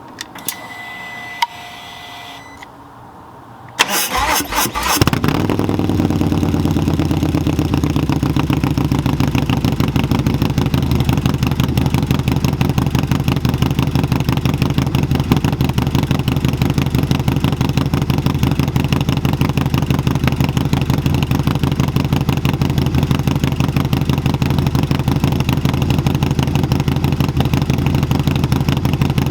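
Harley-Davidson Milwaukee-Eight 131 V-twin with a Cycle-Rama 483 cam and SP Concept exhaust, cold-started: after a few quieter seconds the starter cranks briefly about four seconds in, the engine catches, and it settles into a steady, loud idle.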